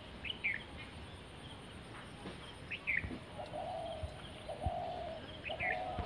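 Outdoor birdsong: a bird repeats a short high chirp of two falling notes about every two and a half seconds. From about halfway in, a second, lower and hoarser call comes in short repeated phrases.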